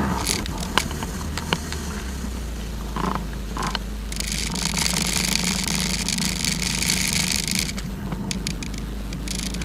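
Jet ski engine running steadily at low revs, with a few sharp clicks and a stretch of loud hiss from about four to eight seconds in.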